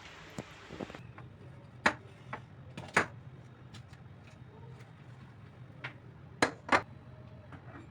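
Kitchen handling sounds: scattered light taps and clicks of utensils and dishes, with four sharper knocks, over a faint low steady hum.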